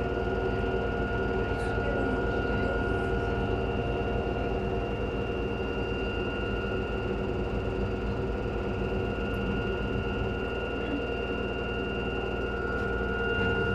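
LG washing machine running, a steady motor whine over a continuous low drum rumble.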